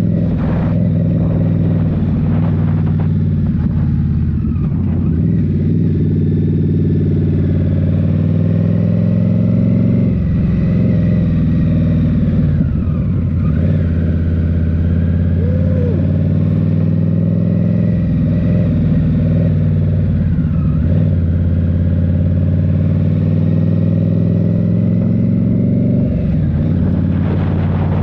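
Indian Scout Rogue's 69 cubic-inch V-twin running under way through a Rinehart slip-on exhaust, its note mostly steady with a few brief dips and small shifts in pitch as the throttle is eased and opened.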